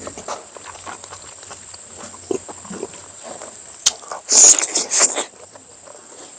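Close-up eating sounds: irregular chewing and mouth smacks, with a louder, hissy slurp about four and a half seconds in.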